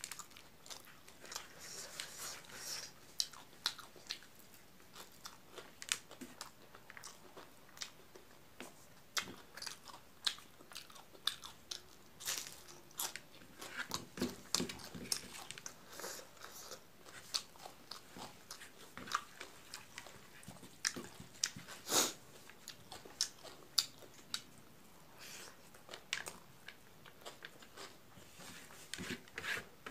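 Close-miked eating of rice mixed with milk curry by hand: irregular chewing, with many short, sharp mouth clicks and smacks.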